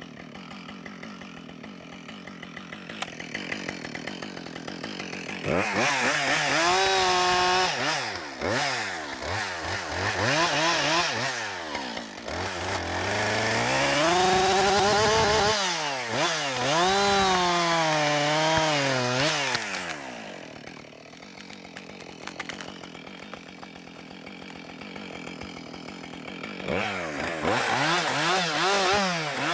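Chainsaw idling, then revved up and down again and again while cutting down a soft maple tree. It drops back toward idle for several seconds about two-thirds of the way in, then revs up again near the end.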